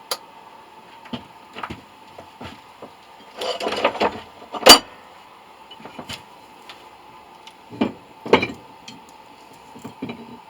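Scattered knocks and clatter of a brass casting being worked out of its mold, with a short rattling scuffle about three and a half seconds in and the loudest sharp knock just after, then two more knocks about eight seconds in. A faint steady hum runs underneath.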